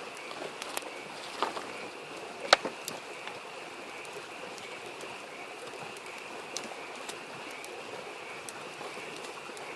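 Wood campfire crackling, with scattered sharp pops, the loudest about two and a half seconds in, over the steady rush of a stream.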